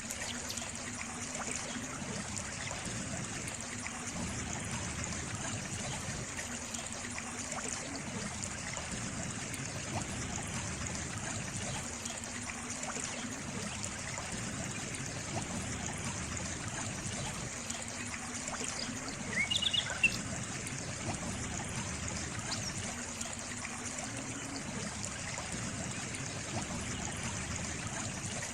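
A small stream trickling and babbling steadily. About two-thirds of the way through, a brief burst of short high chirps stands out above the water.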